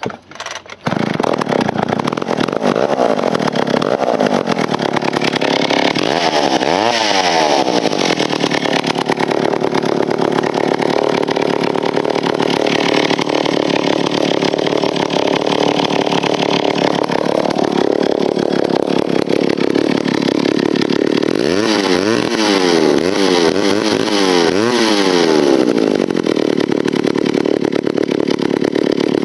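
1959 McCulloch 1-70 two-stroke chainsaw engine, started cold, catching on the first pull about a second in. It then runs steadily, revved up and back down about six seconds in and again in several quick revs later on.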